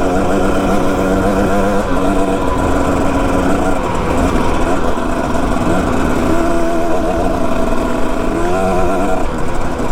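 Dirt bike engine running under way, its pitch stepping up and down several times with throttle and gear changes, over a steady low rumble.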